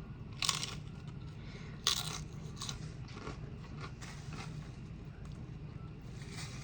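Close-up biting and chewing of crunchy tortilla chips: a sharp crunch about half a second in and another near two seconds, followed by a run of softer chewing crunches.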